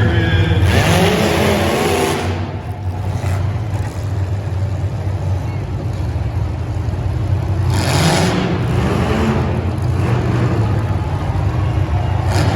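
Vehicle engine running with a steady low drone, with faint voices briefly over it.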